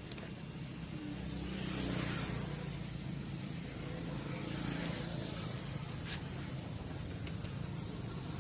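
Steady outdoor background rumble that swells louder about two seconds in and again near five seconds, with a few faint clicks around six seconds.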